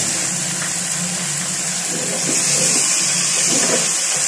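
Chicken pieces sizzling in hot cooking oil in a pot, a steady hiss. A spatula stirs and scrapes through them from about two seconds in.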